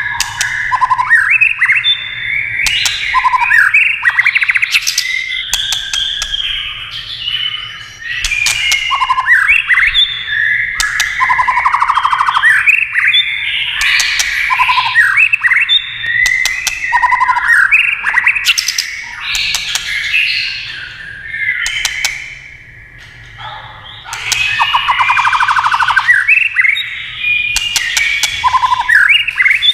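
White-rumped shama singing a long, varied run of loud whistled and warbled phrases, cut through by sharp 'tak' clicks, the excited clicking call it gives while flicking its tail.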